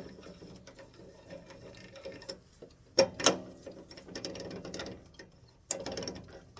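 Wood lathe chuck being tightened on a wooden tenon: rapid metallic clicking from the chuck's gearing, with a couple of sharp knocks about three seconds in and again near the end.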